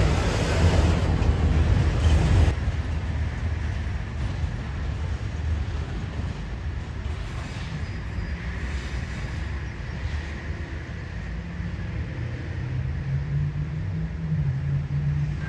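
Diesel freight train: a locomotive engine drones steadily under wheel and rail noise, and the rail noise drops off sharply about two and a half seconds in. The engine drone carries on and rises slightly in pitch near the end.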